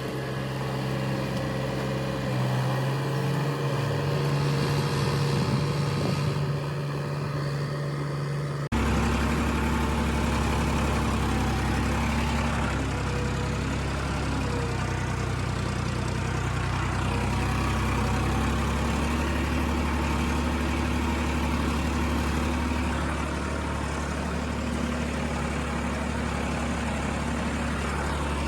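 Tractor engine running steadily. About nine seconds in, the sound changes abruptly to a lower, heavier engine note that runs on evenly.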